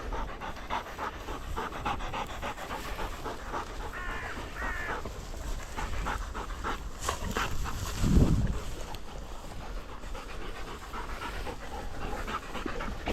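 Dogs panting close by, a quick steady rhythm of short breaths. A brief pitched call comes about four seconds in, and there is a low thump about eight seconds in.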